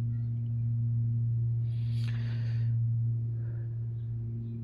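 A steady low drone tone with faint overtones, like a held singing-bowl or meditation drone, with a short soft breathy hiss about two seconds in.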